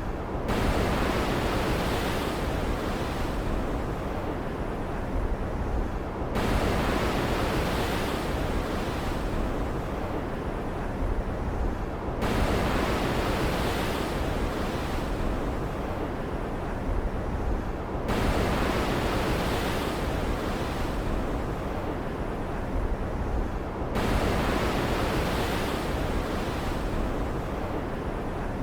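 Ocean surf ambience: a steady rush of water noise with a wave surging in about every six seconds, each swell starting suddenly and fading slowly.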